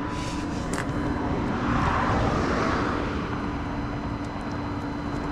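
Vehicle noise: a steady engine hum with the rush of a passing vehicle swelling about two seconds in and fading away.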